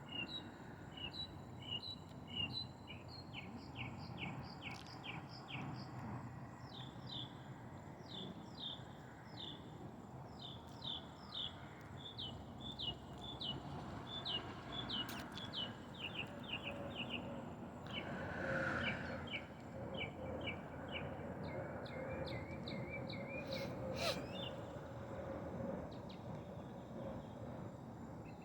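Birds chirping outdoors in a long series of short, high notes, about two a second, with a brief pause past the middle, over a steady background hiss.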